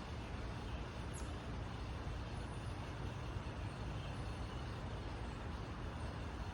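Steady low rumble of distant road traffic, with one faint high bird chirp sweeping down about a second in.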